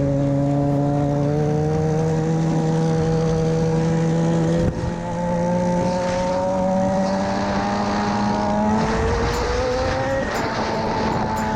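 Sportbike engine pulling under acceleration, its pitch climbing steadily, with a gear change about five seconds in where the pitch drops and the sound dips, and another change near the end.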